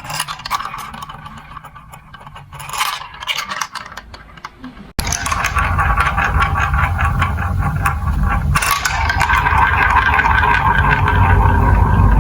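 Marbles clicking and rattling along a plastic building-block marble run. At first there are scattered clicks; about five seconds in, it switches suddenly to a dense, continuous clatter of many marbles rolling, growing louder.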